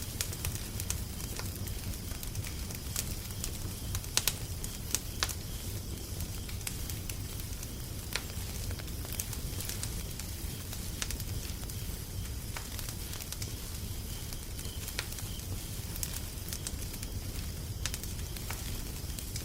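Wood fire crackling: irregular sharp pops and snaps over a steady low rumble and hiss, with a few louder pops about four and five seconds in.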